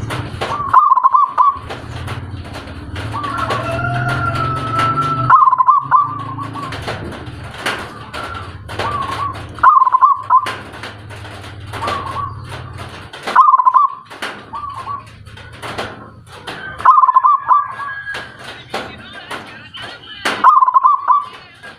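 A caged songbird calling in short, wavering phrases, about six times, one every three to four seconds, over a low steady hum and scattered clicks.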